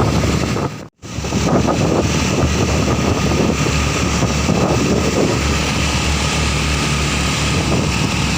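Truck engine running steadily, with the sound cutting out completely for an instant about a second in.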